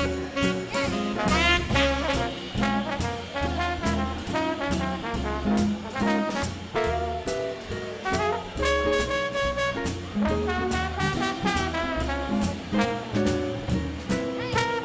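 Live swing band playing an instrumental break: trumpet, trombone and saxophones over upright bass and drums keeping a steady beat.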